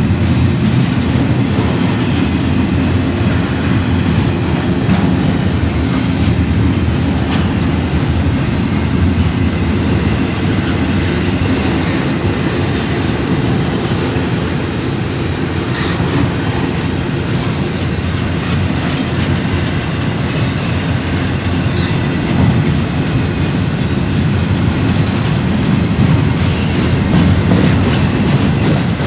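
Railway cars rolling steadily past, a continuous rumble of steel wheels on rail with clickety-clack over the rail joints and faint high wheel squeal.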